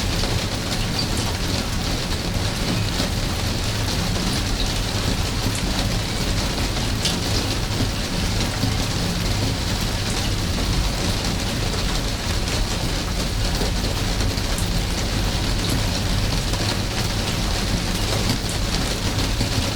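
Steady, fairly loud rain falling, an even hiss with scattered individual drop ticks over a constant low rumble.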